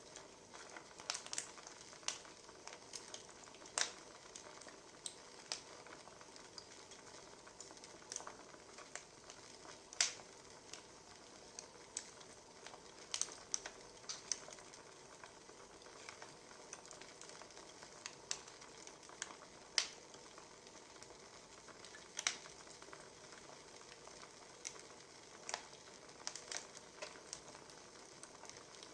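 Wood fire crackling: irregular sharp pops and snaps over a faint steady hiss, a few louder pops among them.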